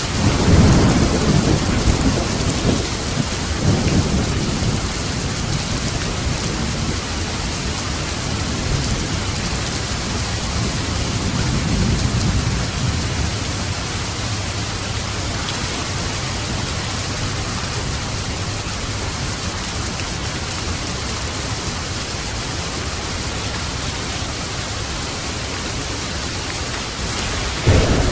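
Steady rain in a thunderstorm, with rolling thunder: a loud rumble in the first few seconds, a softer one about twelve seconds in, and a sudden clap of thunder near the end.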